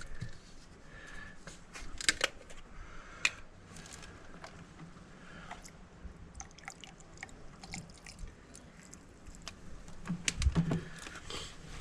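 Scattered clicks and knocks of plastic containers and metal fishing pliers being handled, with white vinegar poured from a bottle into a container in a light trickle.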